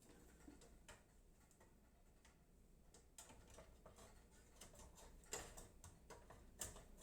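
Faint, scattered clicks and light taps of small PC-case hardware being handled (expansion-slot screws and brackets), growing busier in the second half with a couple of sharper ticks.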